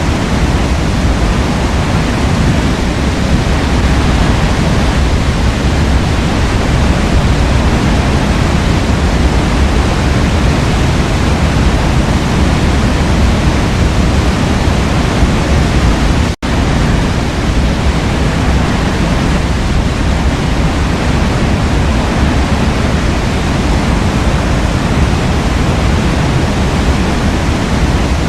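Forest waterfall rushing, a steady full roar of falling water. It is broken once, about halfway through, by a split-second dropout in the sound.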